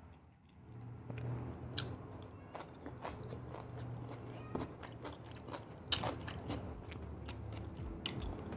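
Close-miked chewing of a handful of nasi lemak with rendang, with many short sharp clicks and crunches in the mouth.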